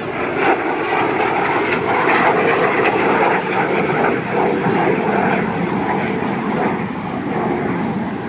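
Jet engines of an Avro Vulcan bomber in a display pass: a loud, steady jet noise with a faint whine in it, swelling about a second in and easing a little near the end.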